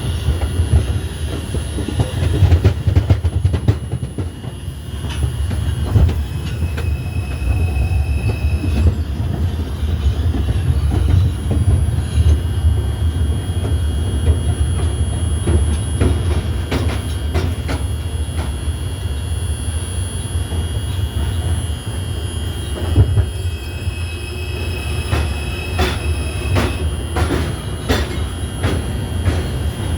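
R142 subway train riding along the track: a heavy low rumble with a high steady wheel squeal, and frequent clicks from the wheels passing over rail joints.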